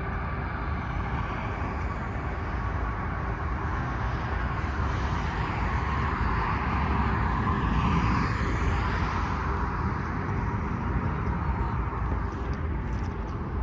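Jet airliner engine noise at an airport: a steady rumble with a faint whine that swells and sweeps in pitch about halfway through as an aircraft passes, then eases off.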